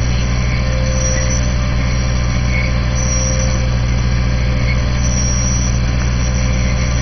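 Tow truck's engine running steadily at a constant low drone, as used when winching a crashed car up an embankment.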